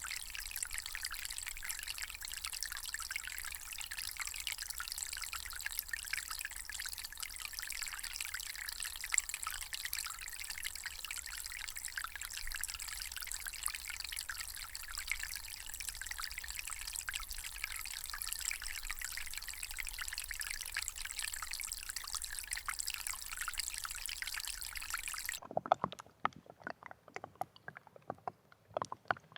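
Water pouring and trickling in a steady, even stream, hissy and light with little low rumble. It cuts off abruptly near the end, and sparse, irregular short clicks follow.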